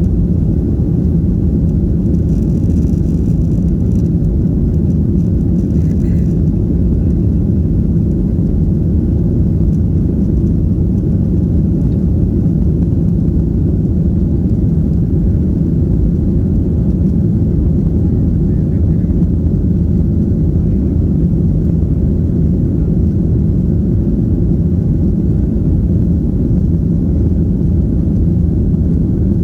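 Boeing 737 jet engines and rushing air heard inside the passenger cabin as a steady, loud low rumble that holds unchanged.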